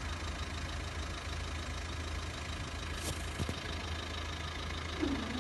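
Steady low hum of road vehicle engines idling, with a couple of faint clicks about three seconds in.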